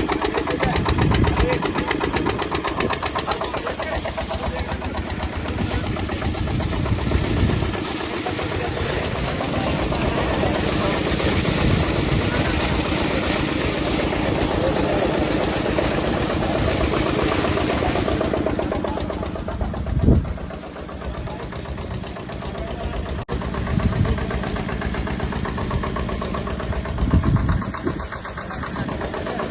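A 12 HP water-cooled diesel engine driving a high-head water pump, running steadily with a fast, even knocking beat. The sound turns duller about two-thirds of the way through, with a few low thumps, the loudest near the end.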